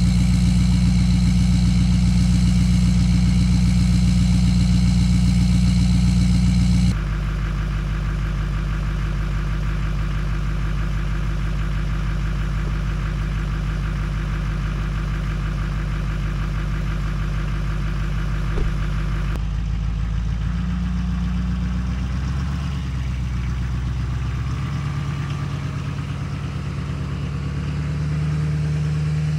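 Truck engine running steadily, heard in three stretches that change abruptly about a third and two-thirds of the way through. In the last stretch the engine's pitch shifts up and down as its speed changes.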